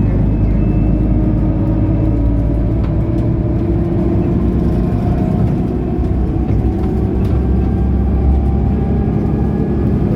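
Mercedes-Benz O530 Citaro Facelift Ü city bus underway, its diesel engine running steadily under road noise, heard from inside the bus. The engine note rises gently through the middle of the stretch as the bus picks up speed.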